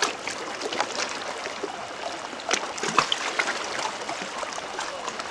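Seawater sloshing and splashing, with scattered small clicks and knocks; the loudest splash comes about three seconds in.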